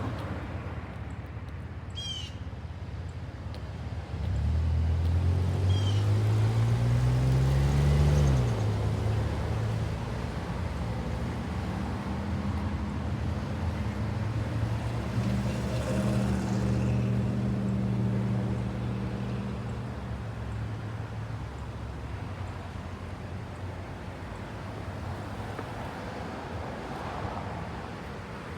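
Outdoor traffic sound: a vehicle's engine rises in pitch as it speeds up about four seconds in, then holds a steady note for several seconds before fading back into a low traffic rumble. Two short high chirps sound early on.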